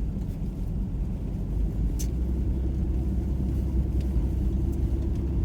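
Car cabin road noise while driving on a snow-covered road: a steady low rumble of engine and tyres. There is a single short click about two seconds in, and a faint steady hum joins from about halfway through.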